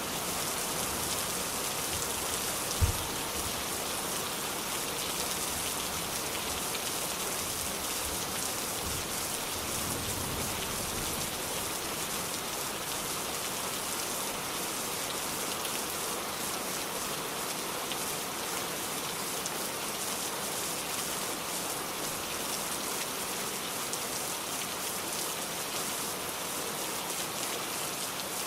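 Steady rain, a dense even hiss, with one short low thump about three seconds in.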